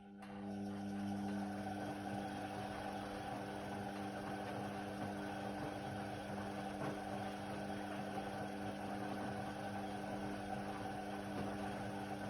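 Indesit WIDL 106 washer-dryer running in mid-cycle: a steady motor hum with noise over it that starts suddenly and cuts off after about twelve seconds.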